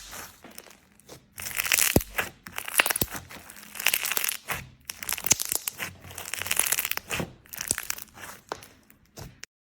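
Slime being squeezed and stretched by hand close to the microphone, giving crisp crackling, crinkling sounds with sharp little pops. The sounds come in repeated bursts about once a second.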